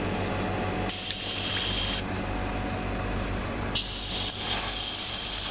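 Airbrush spraying paint in two bursts of hiss: one about a second long starting about a second in, and another starting past the middle that carries on, over a low steady hum.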